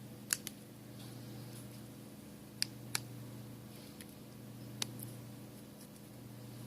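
Five small, sharp clicks, two close together near the start, a pair in the middle and one more near the end: the iPhone 5s display assembly being pressed and snapped into the phone's frame. A steady low electrical hum runs underneath.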